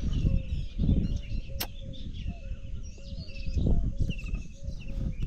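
Birds calling close by: a run of short, low call notes at about three a second, with higher chirps over them and a steady low rumble underneath. A single sharp click about a second and a half in.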